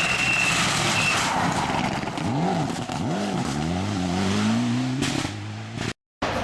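Rally car on a stage with a short high squeal in the first second. Its engine revs rise and fall twice in quick succession, then climb steadily as it accelerates. The sound drops out completely for a moment near the end.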